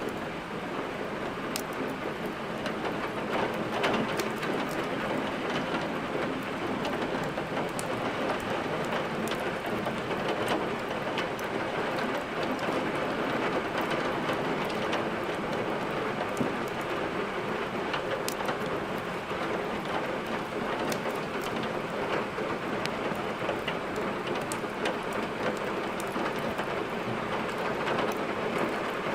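Steady heavy rain, with scattered sharp crackles of burning logs in a fireplace.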